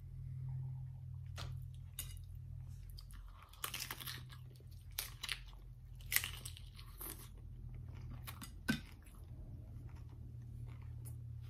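Someone biting into and chewing a crisp fried tostada shell topped with shredded chicken: irregular crunches, loudest about six seconds in and again near nine seconds. A steady low hum runs underneath.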